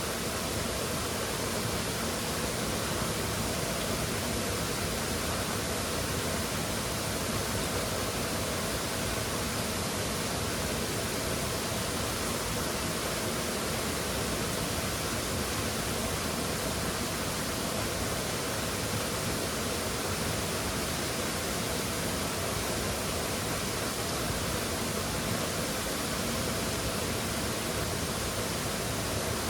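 Waterfall roaring steadily: an unbroken, even rush of falling water.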